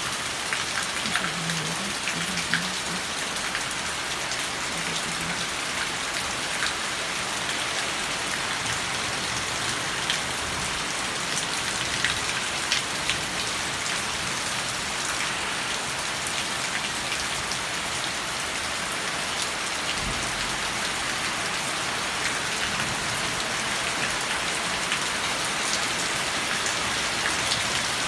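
Steady rain falling, with many individual drops ticking sharply on a surface through the steady hiss.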